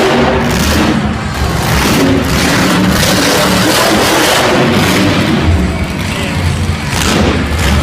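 Monster truck engine revving hard and loud, its pitch climbing and falling repeatedly, with brief dips where the throttle is lifted.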